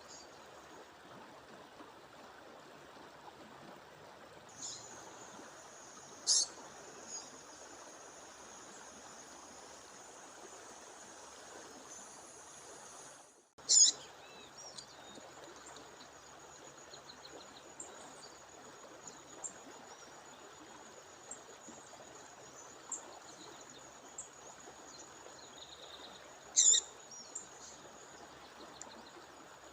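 A waterfall's steady rushing hiss under short, high chirps from a female bird calling, three of them much louder and sharper, about six seconds in, a little before halfway, and near the end. The audio cuts out for an instant just before the second loud call, and a thin steady high tone runs on after it.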